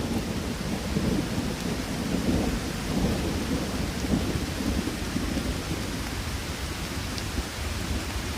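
Steady rain with a continuous low rumble of distant thunder that swells a little a few seconds in.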